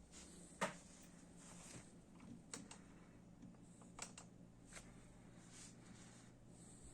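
A few isolated computer key presses, about five sharp clicks spread over several seconds, against a faint steady hum.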